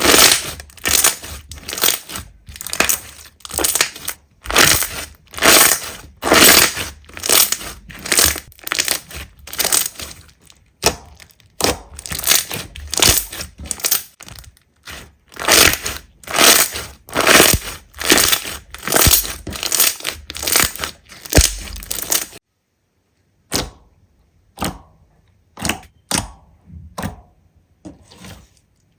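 Slime being pressed and squeezed by hand, crackling in quick repeated strokes about twice a second. It breaks off about 22 seconds in, and after a short pause a few sparser crackles follow.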